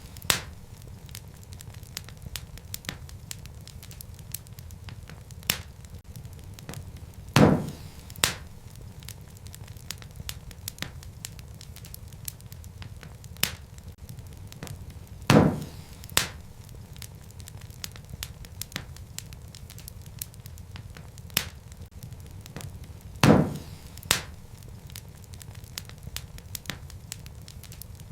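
Wood fire burning in a fireplace: a steady low rumble of flames with constant small crackles. Three times, about eight seconds apart, a loud sharp pop is followed by a smaller one.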